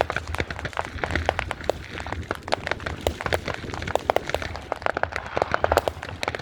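Fireworks crackling: a dense, irregular stream of sharp cracks over a low rumble.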